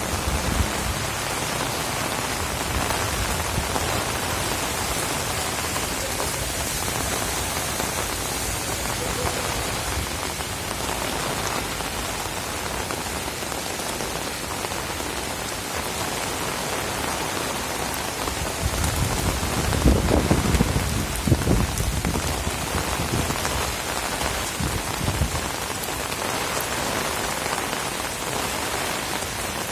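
Heavy rain pouring steadily, a dense even hiss. About twenty seconds in, a louder low rumble with a few sharp peaks rises and fades over a couple of seconds.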